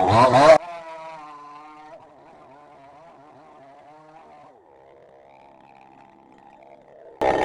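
Gas chainsaw at full throttle, dropping off sharply under a second in to a faint, unsteady idle. It revs back up to full throttle near the end.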